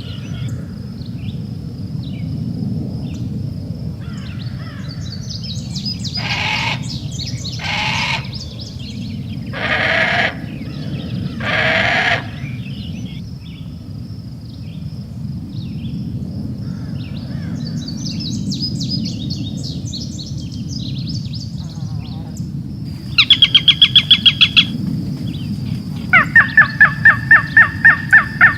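Bleating from sheep or goats: four separate calls in the first half. A softer high chirping follows in the middle. Near the end come two loud bursts of rapid pulsed trilling, each lasting about one to two seconds.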